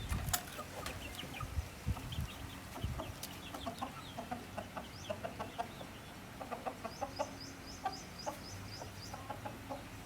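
Chickens clucking in short, repeated calls, with a quick run of high-pitched peeps, about four a second, in the second half.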